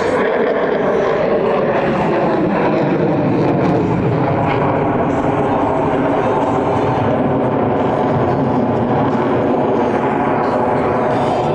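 Loud, steady jet engine noise from the F-22 Raptor's two F119 engines as the fighter flies its demonstration maneuvers.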